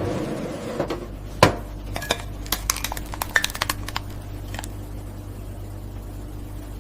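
Dishes and glassware clinking and knocking: a run of sharp clinks over the first four and a half seconds, one of them ringing, over a low steady hum.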